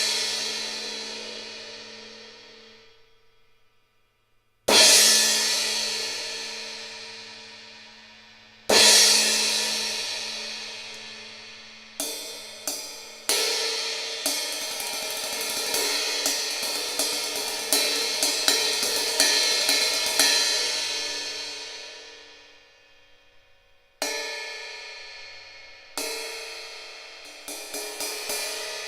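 Arborea Hybrid AP B20 bronze cymbals played solo. Three single strikes each ring out and fade over about four seconds. Then a run of quick repeated strokes lasts from about thirteen to twenty seconds in and dies away, followed by two more single hits and quick strokes again near the end.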